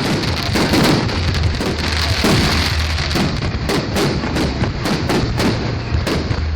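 Fireworks display going off in a dense, unbroken string of bangs and crackles, several a second.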